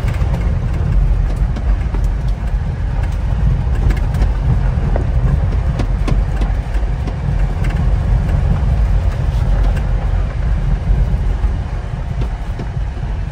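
Inside the cab of a Honda Acty kei truck driving on a bumpy dirt road: a steady low rumble of engine and tyres, with scattered clicks and rattles as the truck bounces.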